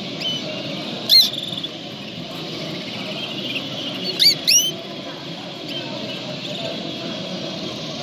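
Three short, sharp bird chirps, each a quick downward sweep: a loud one about a second in and two close together about four seconds in. Under them runs a steady murmur of indistinct voices and hall noise.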